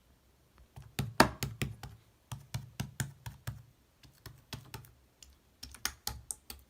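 Irregular runs of quick clicks and taps, several close together, then short pauses.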